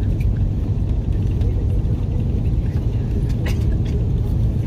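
Steady low rumble in an Airbus A330's passenger cabin as the airliner rolls along the ground after landing, with a few faint clicks.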